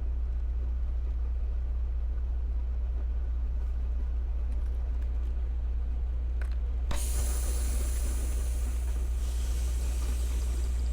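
Low steady drone of a semi truck's diesel engine, with a loud hiss of air that starts abruptly about seven seconds in and lasts about four seconds.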